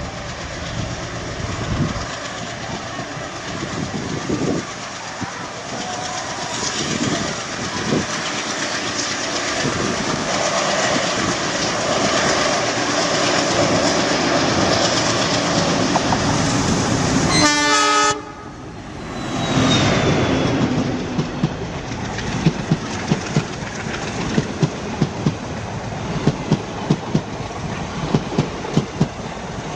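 WDG-3A ALCO-design diesel locomotive approaching with a steadily growing rumble, sounding a short horn blast about eighteen seconds in. Its coaches then pass close by with a rhythmic clickety-clack of wheels over rail joints.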